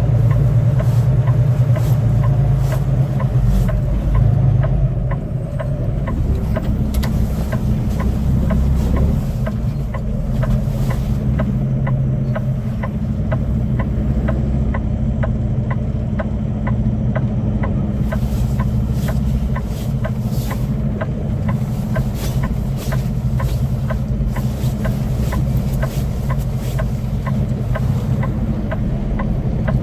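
Semi truck's diesel engine running at low speed while manoeuvring, a steady low drone, with a regular ticking about twice a second over it.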